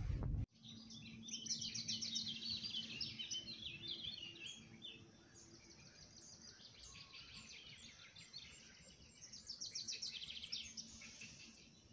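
Songbirds singing, with fast chirping trills that come thickest in the first few seconds and again near the end. It opens with half a second of car road noise that cuts off abruptly.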